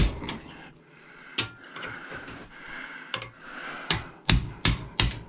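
Hammer blows knocking on metal while a scrap part is pried apart: about seven sharp knocks, several spaced well apart and then a quick run of four near the end, with faint scraping between them.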